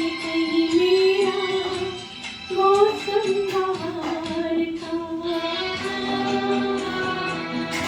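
A woman's voice singing a Hindi film song over instrumental accompaniment, holding long, slightly wavering notes.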